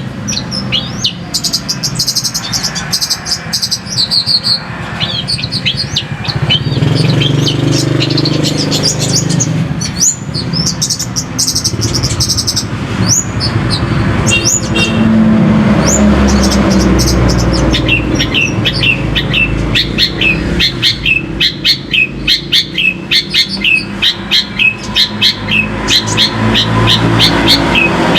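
White-rumped shama (murai batu) singing a varied song of short whistles and sweeping chirps, breaking about two-thirds of the way through into a long fast run of repeated sharp notes. A low rumble runs underneath, loudest in the middle.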